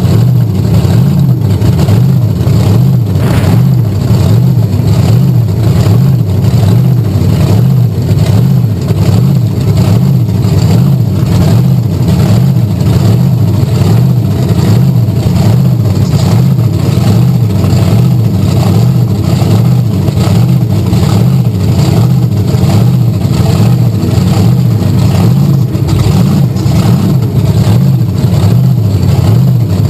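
Monster truck engine running loud and steady, with an even, regular pulse.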